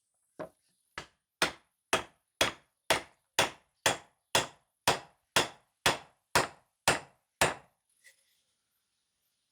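Hammer striking in a steady rhythm, fifteen blows about two a second, each short and sharp with little ring; the first two are lighter, then it stops.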